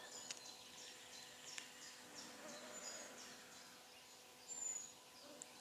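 Near silence with faint, high bird chirps scattered through, over a faint steady hum.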